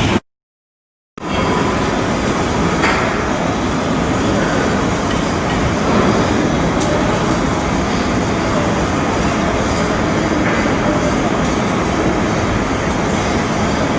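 Steady, loud mechanical work noise of a shipyard, continuous and unpitched, cut off by a brief dead silence shortly after the start before resuming.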